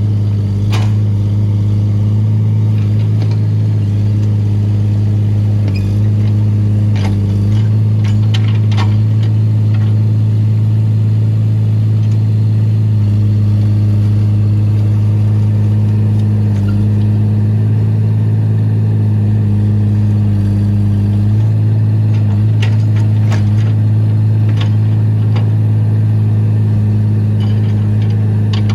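Excavator's diesel engine running at a steady speed, with a few short sharp knocks here and there.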